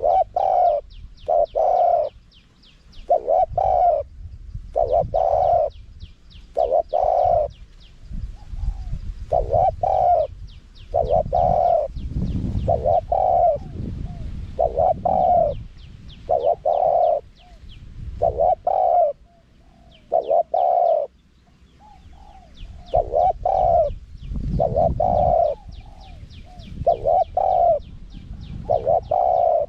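Spotted dove cooing in a small-voiced, wild-style song: loud low coo notes repeated about once a second in short phrases with brief gaps between them. Thin high chirps from small birds and a low rumble run underneath.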